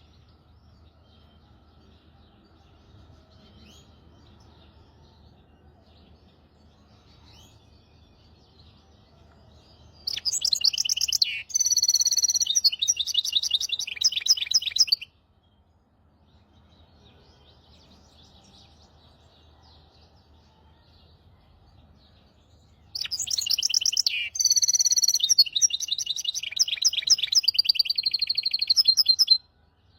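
Hybrid finch singing, a tutor song for young goldfinches and canaries: two loud bursts of rapid, high-pitched trills and warbled phrases, each about five seconds long and stopping abruptly, with faint chirps in between.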